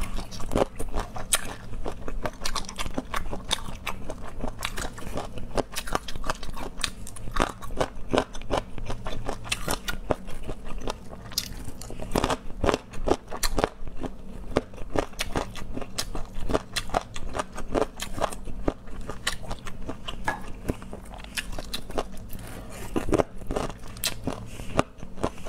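Close-miked mouth sounds of a person chewing deboned chicken feet: a dense, irregular run of small sharp clicks and smacks.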